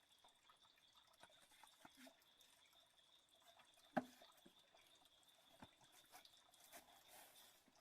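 Near silence, with faint scattered water drips and one sharper click about four seconds in, over a faint steady high-pitched tone.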